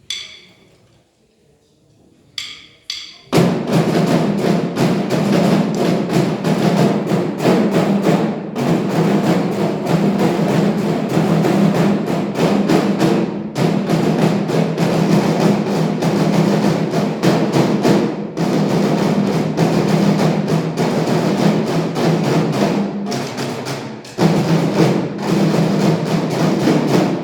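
A group of drummers playing a fast march rhythm, starting about three seconds in after a few sharp clicks, with a brief dip in the playing near the end.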